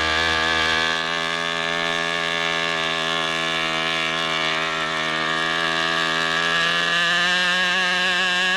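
Model airplane engine running flat out with a high, angry-bee buzz. About seven seconds in its pitch steps up as the engine is tuned.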